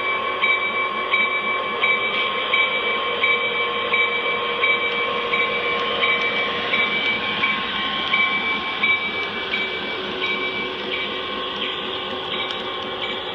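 Lionel O-gauge F7 diesel model locomotives running around a layout, the wheels clicking over the rail joints about every two-thirds of a second over a steady whine.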